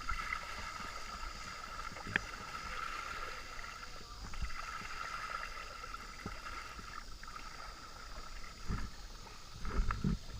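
Kayak drifting on a river: water moving against the hull and paddle over a steady high hum, with a sharp click about two seconds in and a few low knocks near the end.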